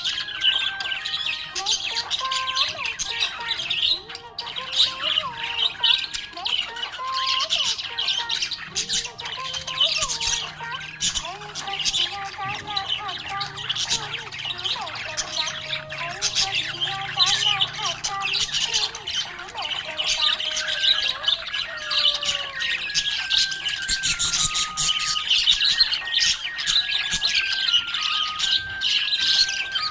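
Budgerigars chirping and warbling without a break, a dense stream of quick high chirps over a slow melody of held notes.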